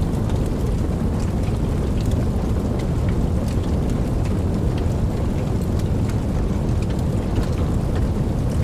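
Steady rain with a continuous deep rumble of distant thunder underneath and scattered individual drops ticking. The sound stays even throughout, with no sharp thunderclap.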